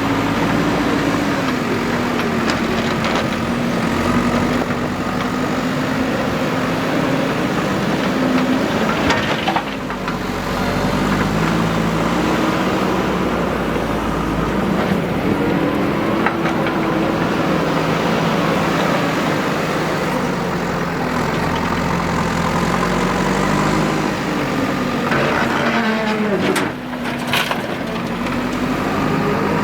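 Diesel engine of a JCB 3DX backhoe loader running under load, its pitch rising and falling as the throttle and hydraulics work. Sharp knocks come about ten seconds in and again a few seconds before the end.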